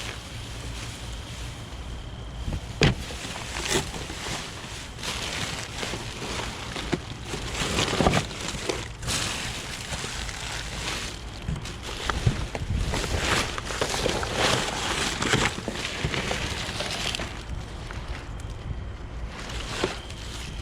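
Rummaging through dumpster trash: irregular rustling and crinkling with scattered sharp knocks and clatters of items being moved, over a steady low rumble.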